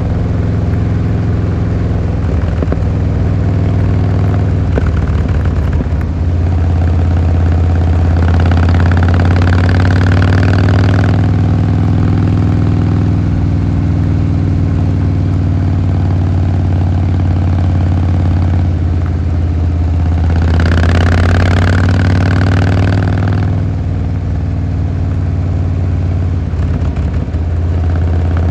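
Harley-Davidson Fat Boy Lo's V-twin engine running steadily at low revs. Its note shifts in pitch now and then. Twice, for a few seconds each, a higher rushing noise rises over it.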